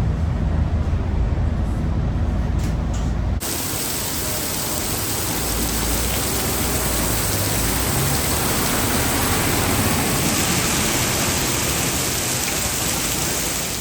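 Low rumble of a MAN ND323F bus heard from inside the cabin, cut off abruptly about three seconds in. A steady, even hiss takes over, with rain as a candidate, and fades out at the end.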